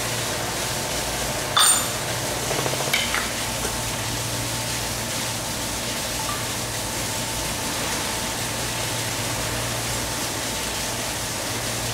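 A machine running with a steady low hum under a hiss, broken by a sharp click about a second and a half in and a fainter one near three seconds.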